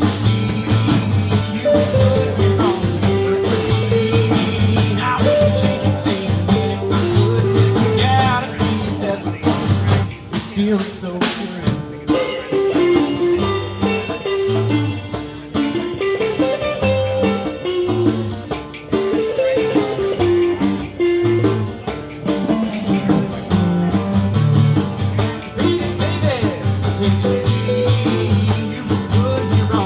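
Live blues band playing an instrumental stretch: a guitar melody over bass and drums.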